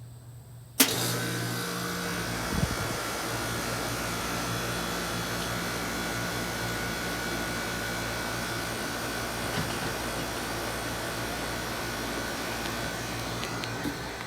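A 1993 Carrier Tech 2000 five-ton air conditioner starting up: it kicks on with a sudden loud click about a second in, then settles into a steady running hum and rush of air with a faint high whine, with a short low thud soon after it starts.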